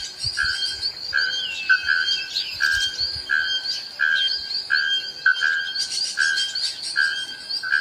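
Bare-throated bellbird calling: a steady series of short, even-pitched notes, roughly two a second, over a constant high insect trill.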